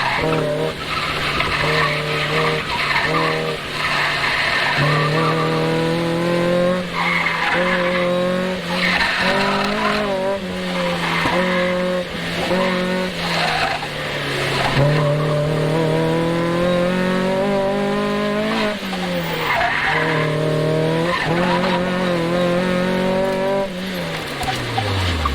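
A car driven hard on an autocross course: the engine revs up and falls back again and again as it accelerates and lifts between corners, with tires squealing through the turns. Near the end the engine note drops steeply as the car slows.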